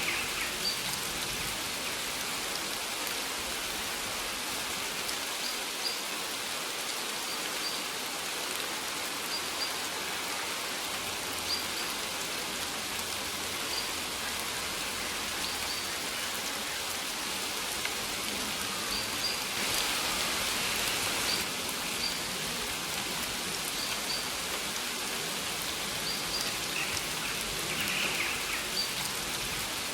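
Steady rainfall hissing evenly, with a brief heavier swell about two-thirds of the way through. Short high bird chirps sound every second or two over the rain.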